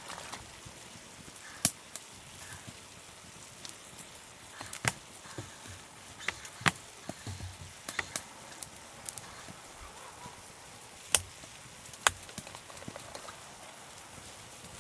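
Scattered sharp clicks and taps, one every second or two, over a quiet low background.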